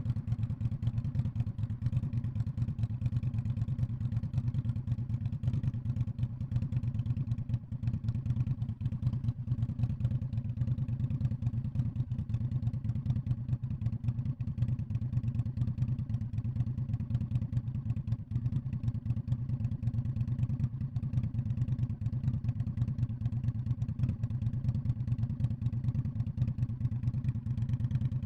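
2019 Indian Scout Bobber's liquid-cooled V-twin running through a Freedom Performance Radical Radius exhaust, holding a steady low engine speed with an even, rapid exhaust pulse and no revving.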